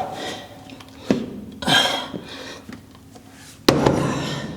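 Metal clanks and knocks of gym leg press equipment and weight plates, with one loud clank a little before the end.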